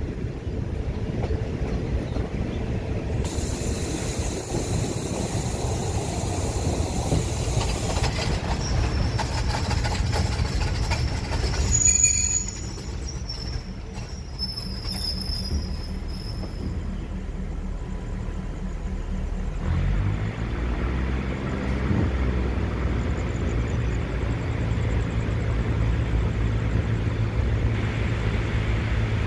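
Passenger train running over the rails, heard from inside a coach: a steady rumble of wheels on track, with high-pitched wheel squeal about twelve to sixteen seconds in. A steady low droning hum joins about two-thirds of the way through.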